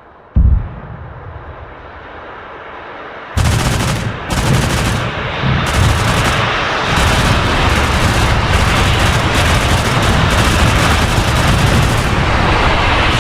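Pantsir-S1 air-defence system firing: one heavy boom about half a second in, then from about three seconds in a continuous loud stream of rapid gunfire.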